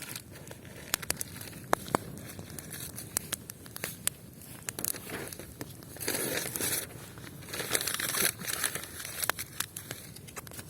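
Wood campfire crackling, with irregular sharp pops. Two longer bursts of rustling noise come about six and eight seconds in.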